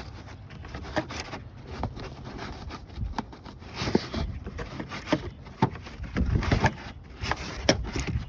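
Irregular clicks, knocks and short scrapes of hard parts being handled around a car battery, with a few heavier thumps near the end.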